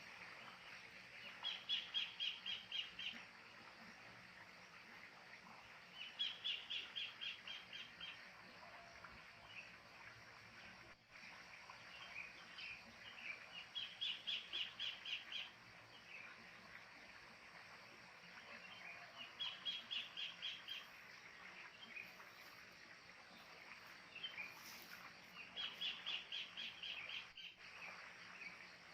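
Wild kingfisher calling a loud rattling series of sharp, rapid notes, each series about a second and a half long, repeated five times about six seconds apart, with fainter birdsong between.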